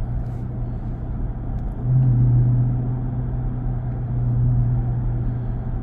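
Chrysler 300C's 6.4-litre HEMI V8 exhaust droning at a steady engine speed while driving, growing louder about two seconds in.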